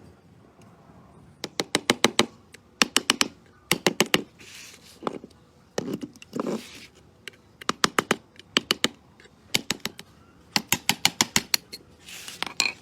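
Repeated short bursts of rapid sharp taps, four to six at a time at about eight a second, with a few brief scraping or rushing sounds between the bursts.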